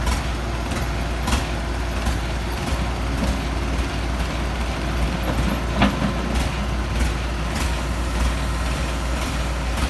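Diesel engine of heavy machinery running steadily at a low rumble, with scattered light knocks and one sharper knock about six seconds in.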